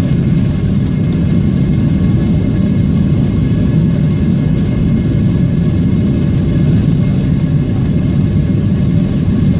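Steady, loud rumble of a jet airliner heard from inside the passenger cabin, with no change in pitch through the stretch.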